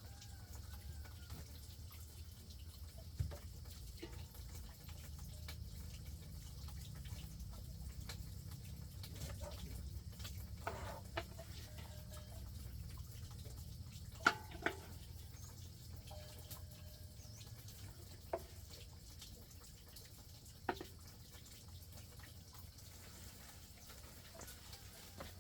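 Water dripping and trickling, with a few sharp knocks over a low steady rumble.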